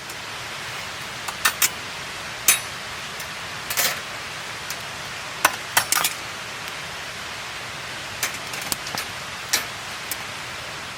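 Wood fire crackling: a steady hiss with irregular sharp pops every second or so.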